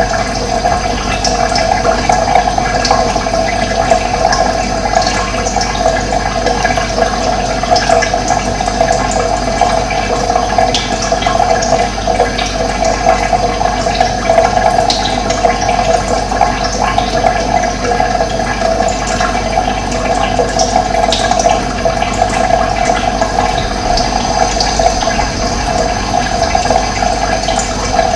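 Running water flowing steadily, with short high bird chirps scattered through it.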